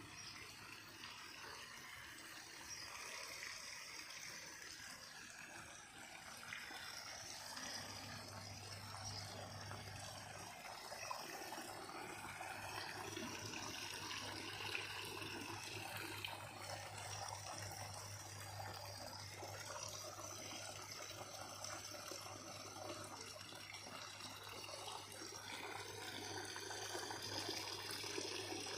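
Faint trickling water running steadily. A low steady hum joins it about eight seconds in.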